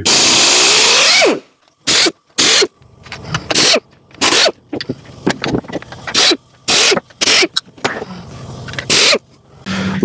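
Air ratchet spinning out the engine cover screws of a Briggs & Stratton Intek V-twin: one long run of about a second and a half, then a string of short trigger bursts.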